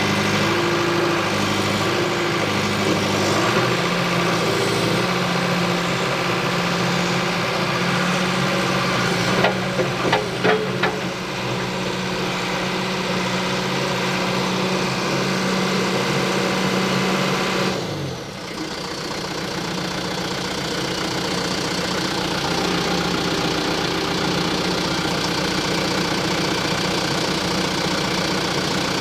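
John Deere 310G backhoe's diesel engine running steadily, with a few sharp knocks about ten seconds in. About eighteen seconds in its note drops sharply and a steadier mechanical running sound carries on. The backhoe has a fault that makes the engine quit after running a while, from lost fuel pressure.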